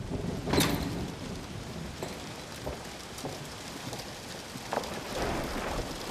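Steady rain hiss, with one sharp loud crack about half a second in.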